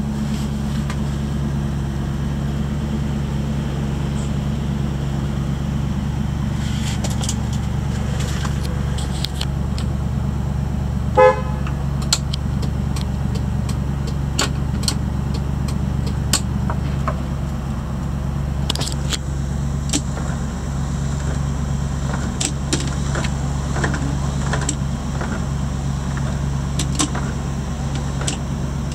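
1995 Land Rover Defender 90's V8 idling steadily after a cold start, with one short toot of the horn about eleven seconds in and some scattered light clicks.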